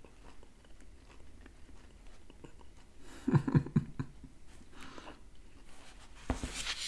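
Quiet chewing of a mouthful of baked salmon, with a brief hum about three seconds in. Near the end a single knock is heard as the plate is set back down on the table.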